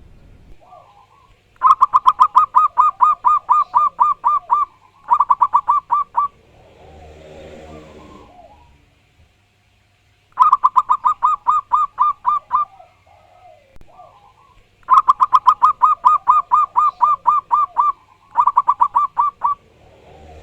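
Zebra dove (perkutut) singing: several loud bursts of rapid, evenly spaced cooing notes, about five a second, each burst lasting one to three seconds. In one gap between bursts there is a softer, lower sound.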